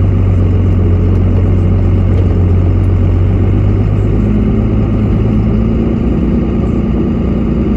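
Pickup truck engine running steadily, heard from inside the cab; its note shifts about halfway through, a low hum giving way to a higher steady tone.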